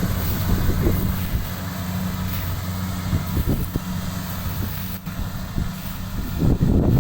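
A motor running steadily with a low, even hum, with irregular short rustling bursts over it, loudest near the end.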